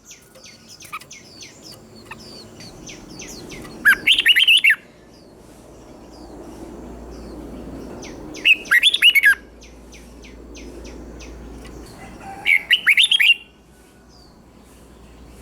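Red-whiskered bulbul singing: three short, loud song phrases about four seconds apart, with fainter chirping in between.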